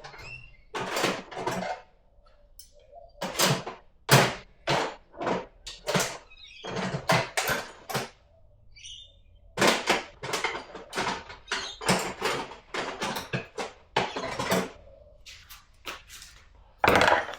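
Hand tools and small metal parts being handled at a workbench: a string of sharp knocks, clunks and scrapes in clusters, with two short pauses.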